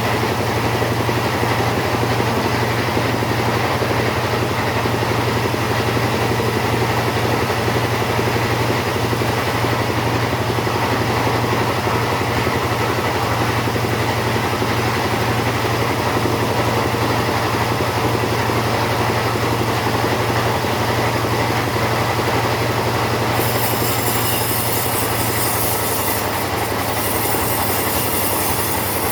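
Chainsaw running steadily at high revs, cutting through teak wood. The engine note stays level throughout, and a brighter hiss from the chain in the wood comes in near the end.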